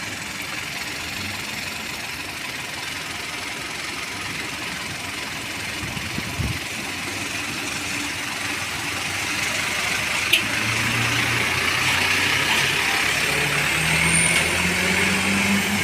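Truck engine running, getting louder from about ten seconds in, with a low thump partway through and a sharp click shortly after.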